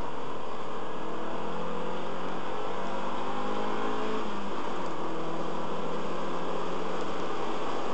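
Car engine heard from inside the cabin, its pitch rising steadily as it accelerates, then dropping at a gear change about four and a half seconds in and holding a steady note.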